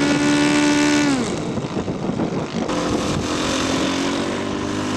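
Radio-controlled scale model airplane engines: one holds a steady note and then drops in pitch about a second in as it passes, and from about three seconds in another engine note climbs slowly as it throttles up for takeoff.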